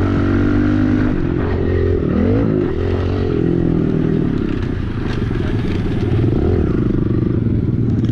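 Pit bike engine running, its pitch dipping and rising with the throttle about two to three seconds in, then holding steady.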